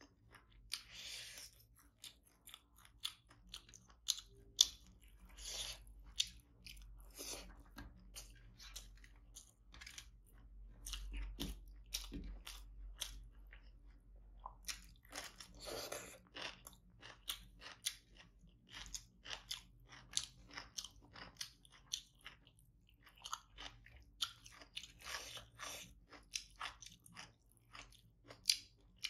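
Close-miked chewing and crunching of rice with fried tilapia and curry, with irregular wet mouth clicks, and the squish of fingers gathering rice on the tray.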